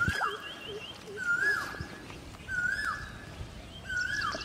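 A bird calling over and over: one short note with a falling tail, four times about a second and a quarter apart. A second bird twitters in quick runs of chirps at the start and near the end.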